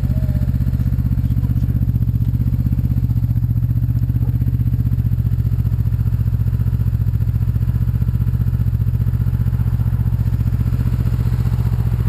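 Motorcycle engine running at a steady speed, with an even, throbbing low pulse and no revving.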